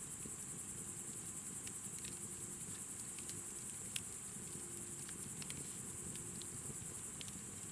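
Campfire crackling with a few sharp pops, the clearest about four seconds in, over a steady high-pitched chirring of night insects.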